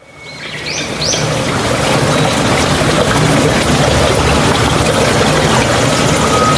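Flowing mountain stream water, a steady trickling rush that fades in over the first second or so and then holds steady.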